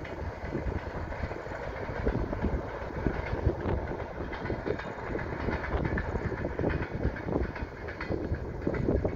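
Passenger express train running along the track as it moves away: a steady rumble with irregular clicking of wheels over the rails.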